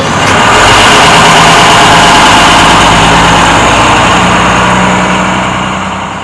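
Vehicle engine sound effect running steadily and loudly. Its pitch steps up slightly about four seconds in, and it fades out near the end.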